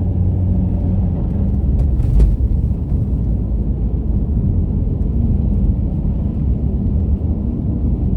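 A car driving on a winter road: a steady low rumble of tyres and engine, with a single thump about two seconds in.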